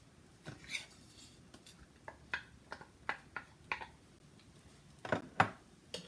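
A run of short, sharp knocks and taps of a utensil against the pan as chopped onion is tipped into hot coconut oil, the loudest two about five seconds in.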